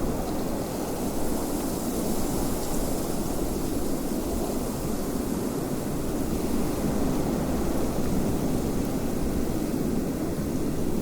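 Wind blowing steadily, a low, even rush.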